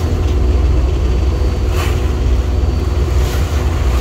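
Boat engine running steadily with a deep low rumble and a steady hum, with a brief whoosh about two seconds in.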